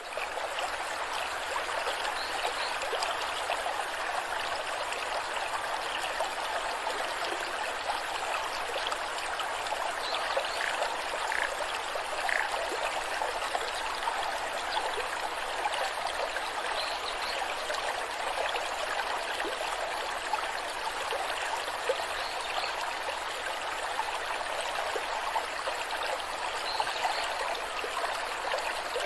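Waterfall: water cascading and rushing in a steady, even wash, with small splashes and gurgles.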